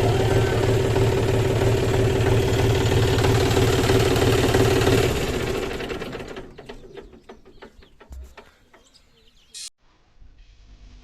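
John Deere 5039D tractor's diesel engine running steadily, then shut off about five seconds in and winding down to a stop. Scattered faint clicks follow, with one short burst near the end.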